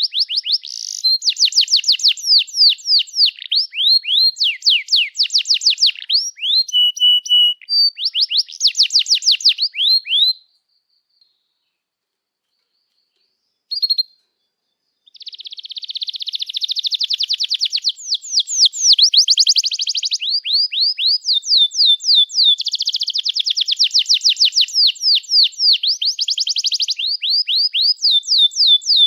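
Domestic canary singing long, fast trills of quickly repeated sweeping notes. The song breaks off about ten seconds in for some four seconds, with only one short note in the pause, then resumes with more trills.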